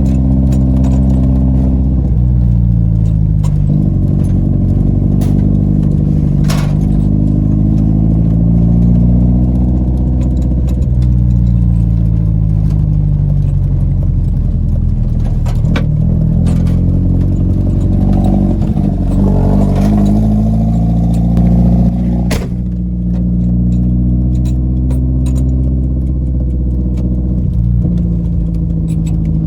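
Car engine running under load, its pitch climbing and dropping repeatedly as it revs up and falls back, with a few sharp knocks and rattles along the way.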